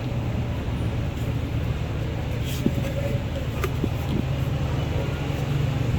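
A steady low engine hum, with a few light clicks about halfway through.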